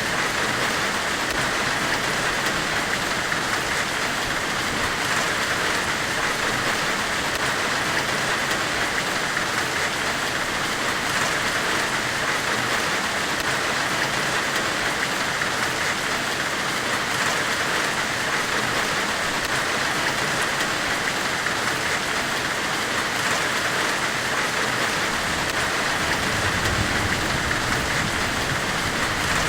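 Steady forge-weld hiss white noise: an even, unbroken hiss with no breaks or strikes, strongest in the upper-middle range.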